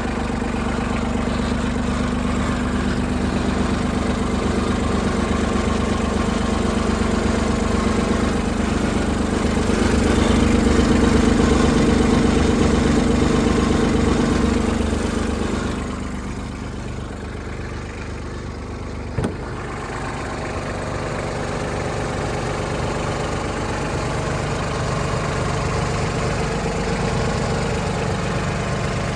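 Three-cylinder diesel engine of a Yanmar AC21 crawler tractor running steadily. It grows louder for several seconds, eases off a little past the middle, and gives a single sharp click a few seconds later.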